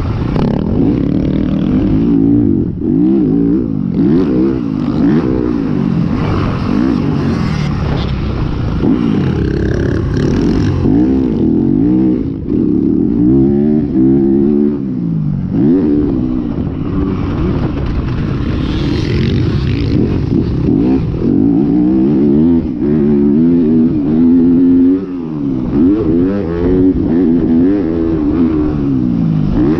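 Several 450cc motocross bikes racing around the track, their engines revving up and down over and over as riders go through the gears, jumps and corners, with overlapping engine notes.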